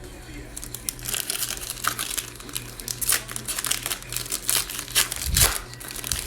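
Plastic wrapper of a basketball trading card pack being torn open and crinkled by hand. There is a run of crackles, loudest with a low thump about five seconds in.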